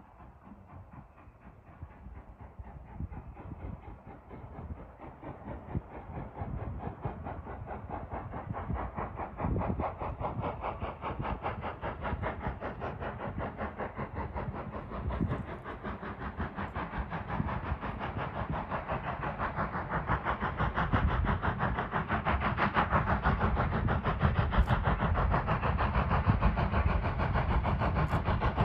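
Steam locomotive and its train approaching, growing steadily louder, with a fast, even beat running through the sound.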